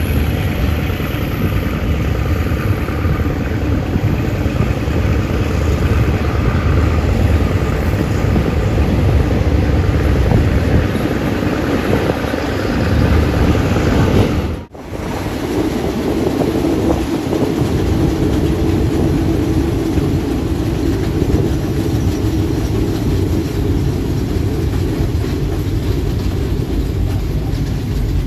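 A Thai State Railway local passenger train running along the line, heard from an open carriage window: a steady, loud rumble of the carriage rolling on the rails. It cuts out for an instant about halfway through, then carries on.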